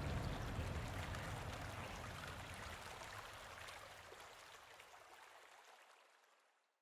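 Running-water ambience, a steady wash with a low rumble and small droplet-like ticks, fading out to silence over about six seconds.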